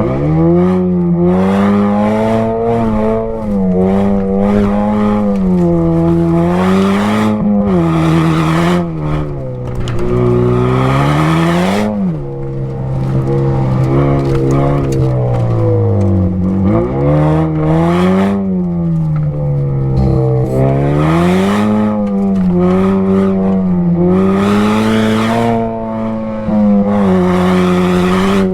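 Chevrolet Camaro Turbo 1LE's turbocharged four-cylinder engine, picked up at the exhaust, revving up and dropping back over and over as the driver works the throttle and shifts around a dirt rallycross lap, with bursts of loose-surface tyre and gravel noise between.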